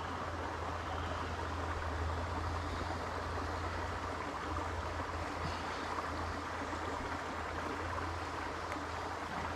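Creek water running, a steady even rushing noise.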